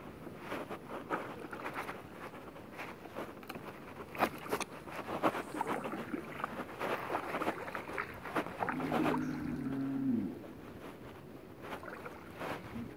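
A cow mooing once, one long low call about nine seconds in that falls in pitch at the end. Under it, kayak paddle strokes splash and drip irregularly.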